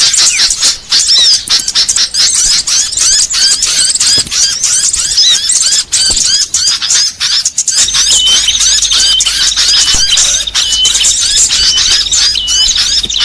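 Bird-lure recording of many small songbirds calling together: a dense, continuous chatter of quick high chirps and squeaky scolding notes. About eight seconds in, a repeated steady whistled note joins the chatter, over a low hum.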